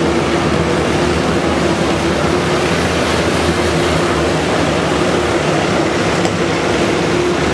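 Mini sprint race car engines running together in a steady, loud drone with a held tone, as the cars race round the track.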